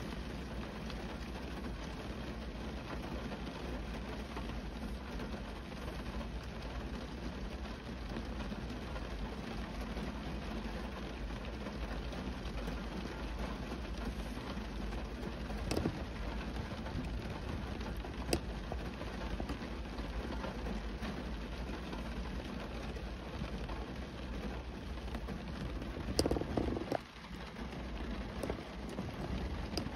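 Steady rain falling on a car's window glass and body, with a constant low rumble underneath. A few sharper single drop strikes come through, and a louder cluster of them near the end.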